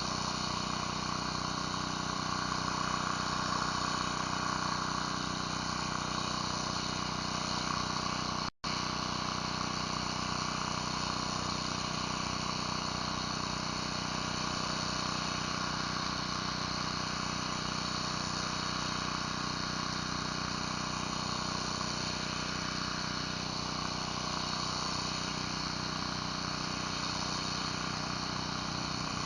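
Pressure washer running steadily while a surface cleaner sprays water across concrete, a constant machine drone with a rushing hiss. The sound drops out for an instant about eight and a half seconds in.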